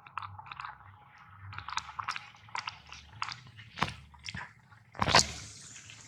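Irregular short crunching clicks, several close together at times, with a louder crack about five seconds in.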